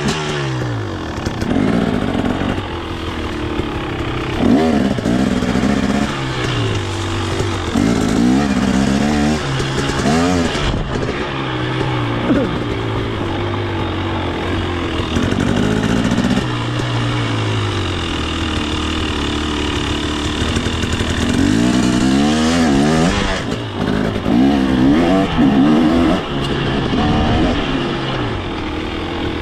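KTM 250 XC's single-cylinder two-stroke engine running and revving up and down again and again as the throttle is opened and closed, holding steadier for a few seconds around the middle.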